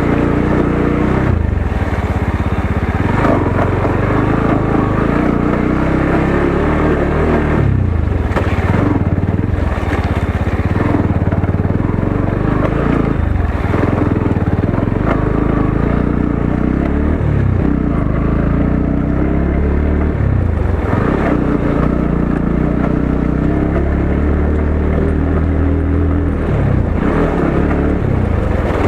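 Motorcycle engine running under load on a rough off-road track, its pitch repeatedly dropping and climbing again as the throttle is eased and opened.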